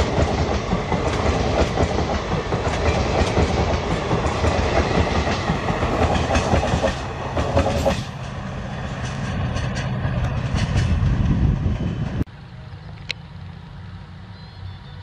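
Railway coaches rolling past close by, wheels clattering over the rail joints, the sound thinning as the last coach pulls away. About twelve seconds in it cuts abruptly to a much quieter, steady low rumble of a diesel locomotive approaching in the distance.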